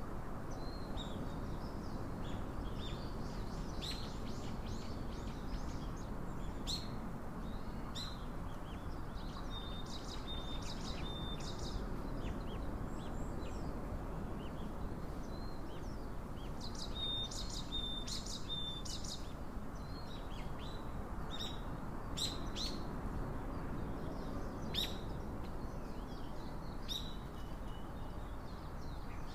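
Small birds chirping with short, high calls scattered throughout, a few of them brief held notes, over a steady low background hiss.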